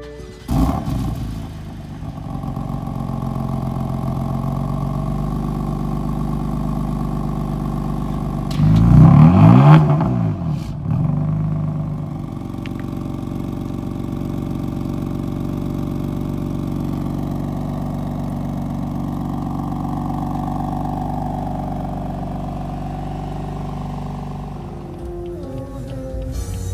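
2018 BMW M4's twin-turbo straight-six starting with a brief loud flare about half a second in, then settling to a steady idle. About eight seconds in it is revved hard once, pitch rising and falling back, with a smaller blip just after, then returns to idle.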